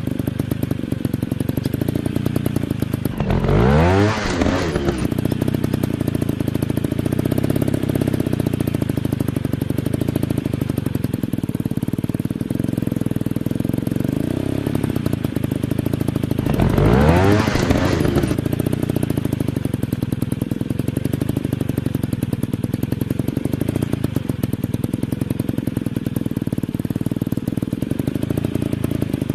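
Dirt bike engine running with a steady rapid putter, and twice, about 4 seconds in and again about 17 seconds in, a motocross bike passes close by, its engine note rising and then falling.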